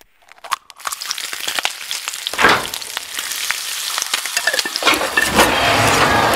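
Food frying in a hot pan: sparse crackles and pops at first, then a dense sizzle that swells about two and a half seconds in and again near the end.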